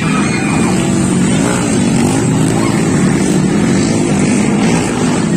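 Motorcycle engines running hard in a race, their pitch wavering up and down as they rev.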